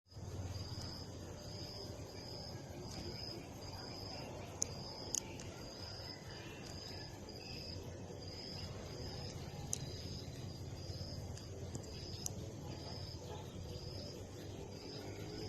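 An insect chirping steadily, one short high note a little more than once a second, over a low steady rumble, with a few sharp clicks.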